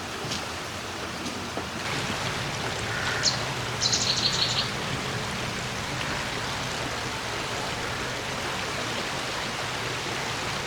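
A bird chirping: a single high note about three seconds in, then a quick run of high chirps a second later, over a steady hiss.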